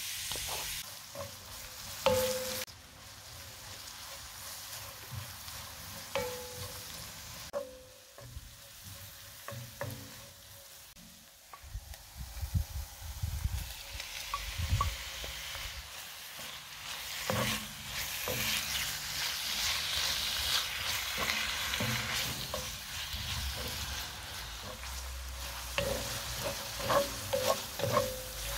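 Diced onions frying and sizzling in butter in a cast-iron pan, with a wooden spatula scraping and knocking against the pan. About halfway through, raw chicken pieces go in and the sizzle grows louder, with more stirring and spatula taps toward the end.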